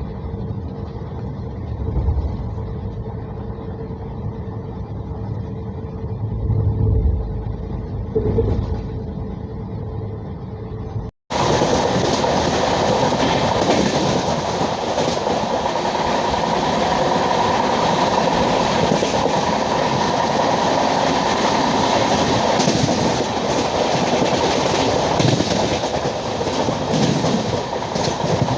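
LHB passenger coaches of an Indian Railways express running on the track, with a few thumps under a steady hum. About eleven seconds in, the sound cuts abruptly to a louder, steady rushing of the train at speed.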